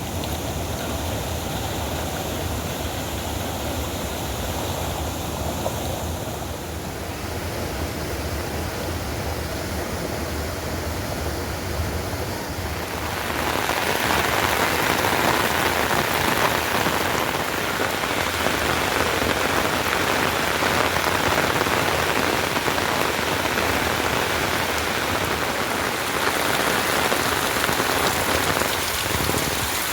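Heavy rain falling steadily, turning louder about halfway through.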